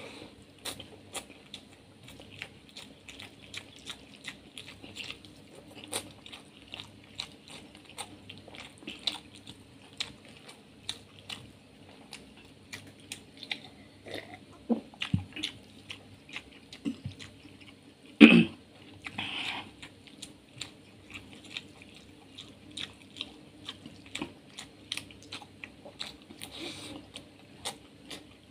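Close-miked chewing of rice with kabab and liver curry, with many small mouth clicks and smacks throughout. There are swallows of water about halfway through, and a single louder knock about two-thirds of the way through followed by a short breathy sound.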